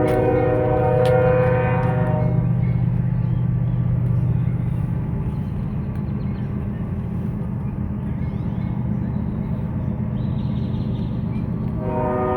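Train horn sounding a long chord that cuts off about two seconds in, over the steady low rumble of a passing train. The horn sounds again near the end.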